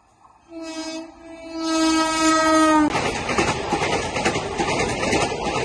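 Train horn sounding twice, a short blast then a longer one that drops slightly in pitch just before it stops. The rush and rapid wheel clatter of an Indian Railways passenger express's coaches speeding past close by follow.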